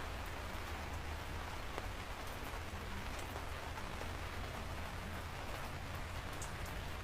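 Steady rain falling, with a low rumble underneath and scattered drops ticking on a surface.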